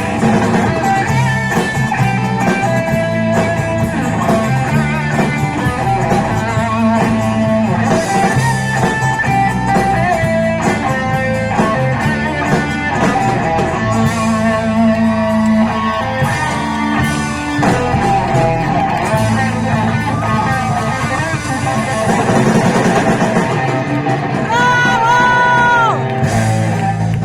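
Live rock band music led by a melodic guitar line.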